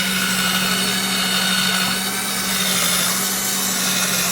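Small rotary tool fitted with a ball-shaped "chupa-chups" grinding bit, running at a steady pitch while grinding out an iPhone's camera ring.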